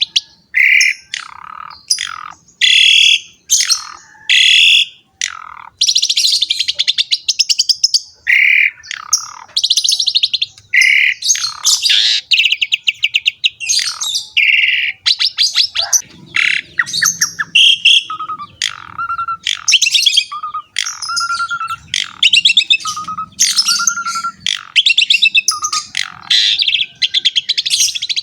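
Asian pied starling (jalak suren) singing in full, a varied, continuous stream of harsh chattering, rapid buzzy trills and clear whistled notes.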